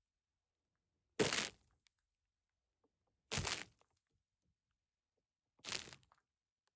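Three short crackling strokes about two seconds apart, each dying away within half a second: an ASMR trigger sound made close to the microphone.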